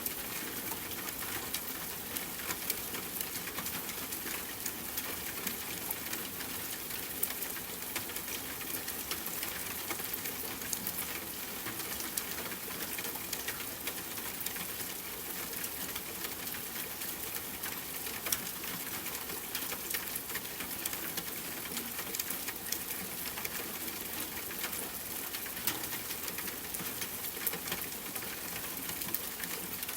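Steady rainfall mixed with a crackling wood fire, with frequent small sharp crackles and pops over the rain's even hiss.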